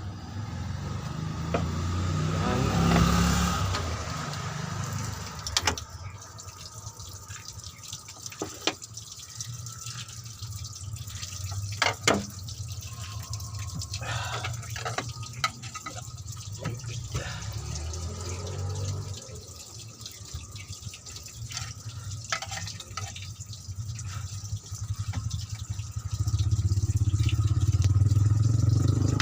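Coolant draining and dripping out of the radiator, with scattered sharp metallic clicks of tools on the engine bay and a steady low rumble underneath.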